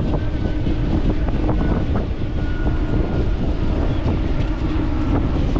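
Wind buffeting the microphone of a moving bicycle: a steady, loud low rumble.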